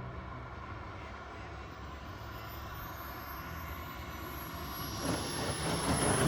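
KingTech K-130 model jet turbine of a radio-controlled jet approaching to land. It makes a thin high whine that slides steadily down in pitch and grows much louder over the last second or so as the jet comes close.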